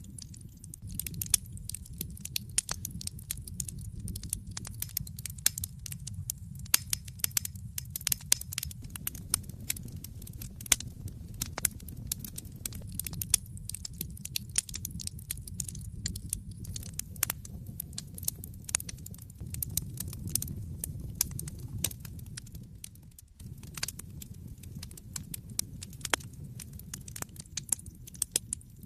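Wood fire burning in a fireplace, crackling with many irregular sharp pops and snaps over the low, steady rumble of the flames.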